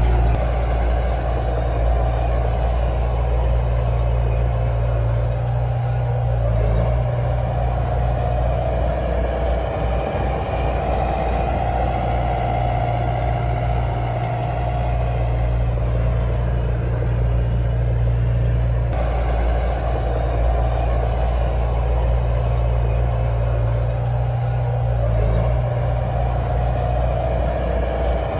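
Heavy diesel engine of earthmoving machinery running steadily. Its pitch shifts now and then as the load changes.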